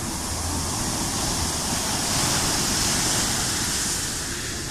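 Sea waves surging in and washing up, the hiss of the surf swelling about halfway through and then easing.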